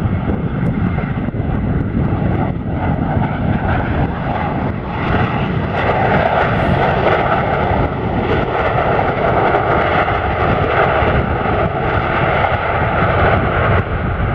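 Airliner jet engines running loud: a deep rumble with a steady whine on top that grows stronger about five seconds in.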